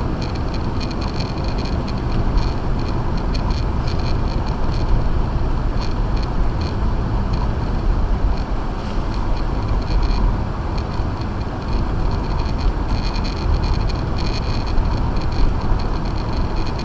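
Acura MDX SUV driving on a snow-covered road on Sumitomo Ice Edge winter tires: steady low road and tyre noise, with faint high tones coming and going.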